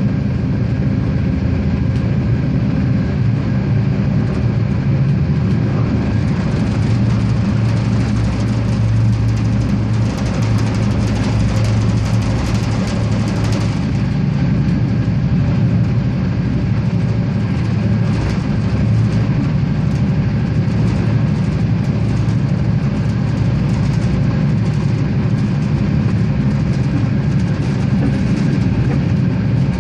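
Siemens Duewag RegioSprinter diesel railcar running along the line: a steady low engine hum over the rolling noise of wheels on the track, with light clicking and rattling mixed in.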